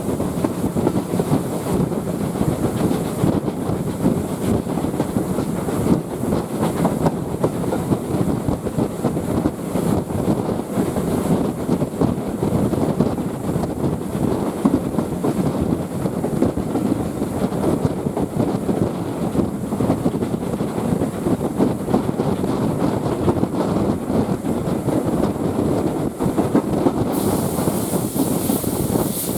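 A train running along the track: a steady rumble of wheels on rail. A higher hiss joins near the end.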